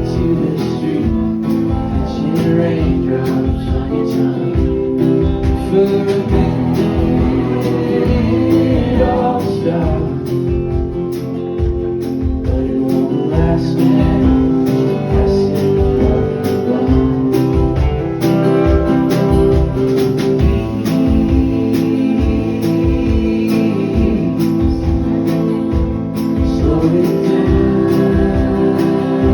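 Live alt-country folk music: strummed acoustic guitar over a steady beat, played loud and without a break.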